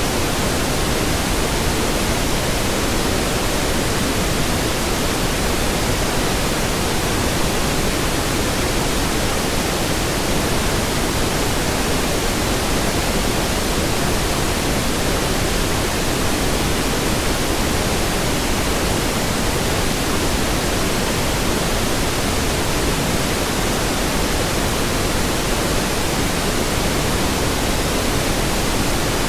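Steady synthetic pink noise: an even, unchanging hiss spread across all pitches, weighted toward the low end.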